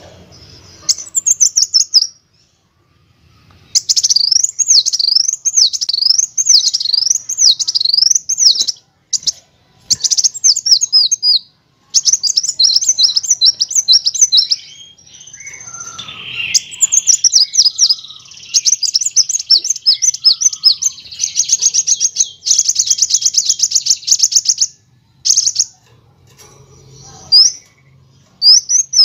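Kolibri wulung sunbird singing: phrases of high, thin chirps, quickly repeated rising-and-falling sweeps and fast rolling trills, separated by short pauses.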